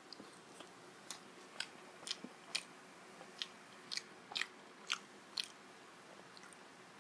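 Close chewing of a steamed momo dumpling: a dozen or so sharp mouth clicks and smacks at uneven intervals, stopping about five and a half seconds in.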